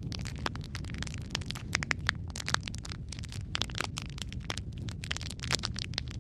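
Wood fire crackling in a fireplace: a steady low rumble of the flames under dense, irregular snaps and pops, a few louder pops standing out.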